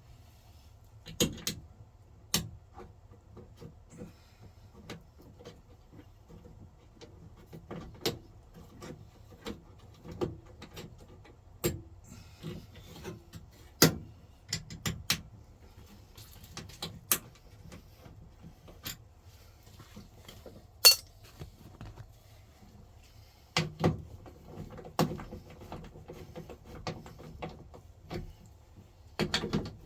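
Irregular metal clicks, clinks and knocks of hand work on a square-body Chevrolet pickup's door hardware, with a sharp loudest click about two-thirds of the way through and a quick cluster of knocks soon after.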